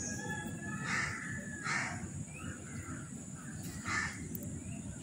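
A bird calling three times with short, harsh, cawing calls.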